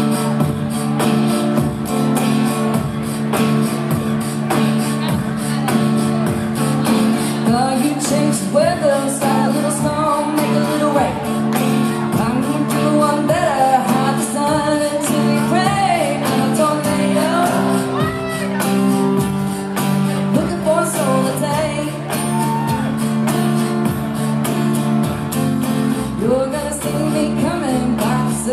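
Live band music in a large room: sustained guitar chords over a steady drum beat, with a sliding melodic line over the middle stretch.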